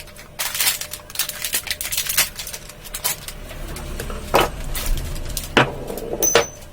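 Small metal parts clicking and clattering as they are handled: a new ball bearing and ceiling fan parts being set out and fitted, with a few sharper knocks.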